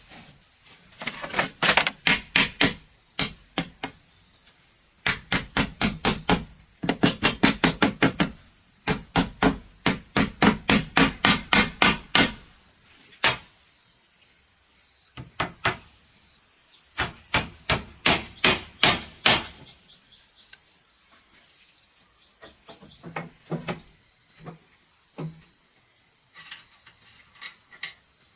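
Fast runs of hard strikes on wood, about five a second, in bursts of a few seconds each. The strikes thin out to a few scattered, fainter knocks after about twenty seconds. Insects buzz steadily in the background.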